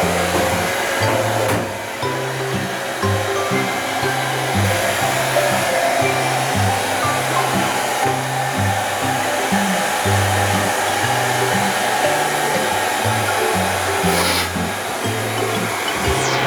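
A hand-held hair dryer blowing steadily, with background music carrying a bass line underneath.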